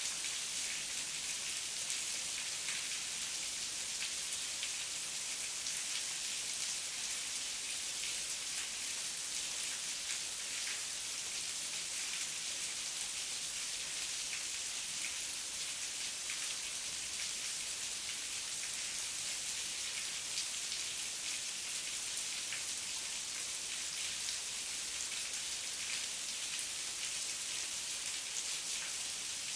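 Heavy rain falling steadily: a dense, even hiss with many small drops ticking through it.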